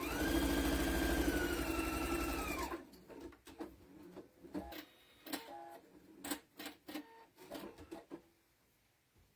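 Electric sewing machine stitching a seam for about three seconds, its motor whine rising and then easing off before it stops. Then come several seconds of scattered light clicks and knocks.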